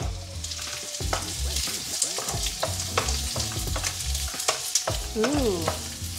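Chopped garlic and red onion sizzling in hot oil in a nonstick wok, stirred with a wooden spoon that clicks and scrapes against the pan again and again.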